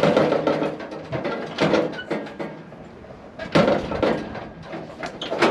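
Car door on a VW Beetle being rattled and knocked against repeatedly, about four loud clunks spaced a second or two apart, as someone inside tries to force a door that is stuck shut.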